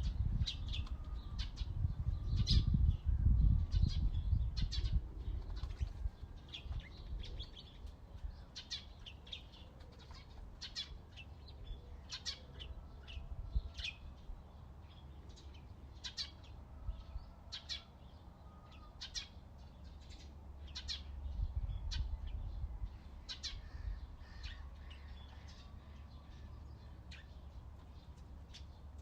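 Small songbirds chirping over and over, short high chirps coming a few times a second from several birds at once. A low rumble sits underneath, heavier for the first few seconds and again briefly past the middle.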